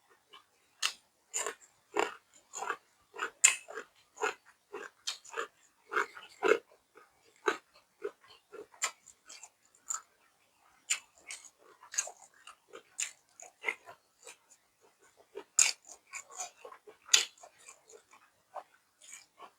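A person chewing food close to the microphone: wet mouth clicks, smacks and crunches, irregular, about two to three a second.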